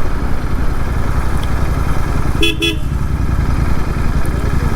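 Royal Enfield Interceptor 650's parallel-twin engine running at a steady pace on the road, with a vehicle horn giving two short toots about halfway through.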